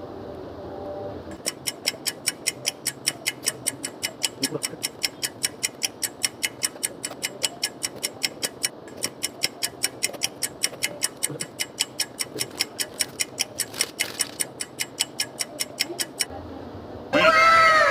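Clock-like ticking, sharp and evenly spaced at about four ticks a second, which stops about a second before the end. Then comes a louder sound whose pitches fall.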